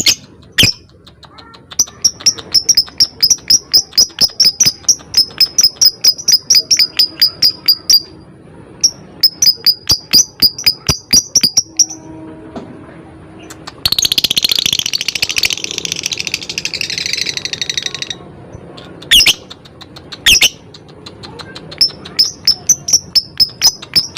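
Lovebird calling: long runs of rapid, sharp, high-pitched chirps at about five a second, broken in the middle by a dense buzzing trill of about four seconds (the long chatter keepers call ngekek), then a few single chirps and another quick run near the end.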